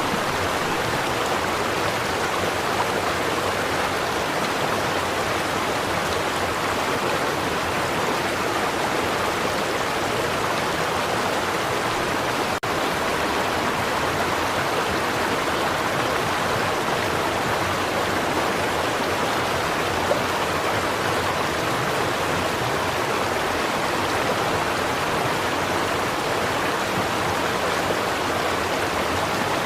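A stream of water running steadily over rocks, a continuous even rush.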